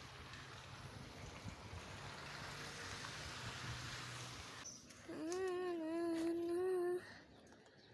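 Steady hiss of falling rain. About five seconds in, a single drawn-out pitched cry rises and holds with a slight waver for about two seconds, the loudest sound here, then cuts off.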